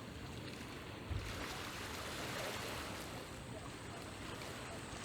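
Small sea waves washing on the shore as a steady hiss, with a short low thump about a second in.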